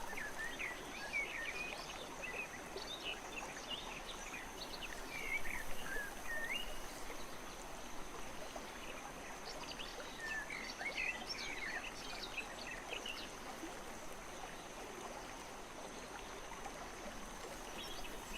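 Steady rain falling, an even hiss, with birds chirping in several short bouts over it and a thin, steady high-pitched tone underneath.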